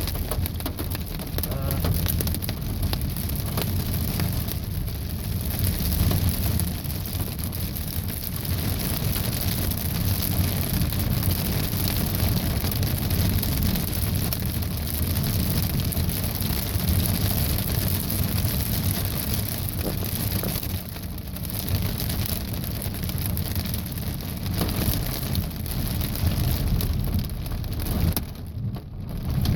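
Pea-sized hail pattering steadily on a vehicle's roof and windshield, heard from inside, over a low rumble.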